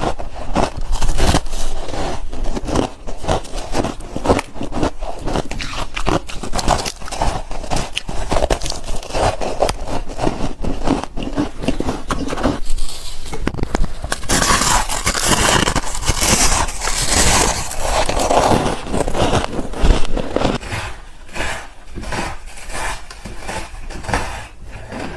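Close-miked biting and chewing of freezer frost bars: a fast, irregular run of crisp crunches. About halfway through the crunching turns brighter and hissier, then thins out near the end.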